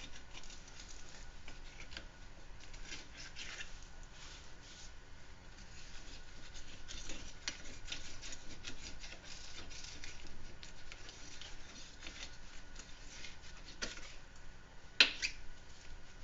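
Handling noises from working with auto parts by hand: rustling, scraping and light clicks and taps throughout, with one sharp knock about fifteen seconds in.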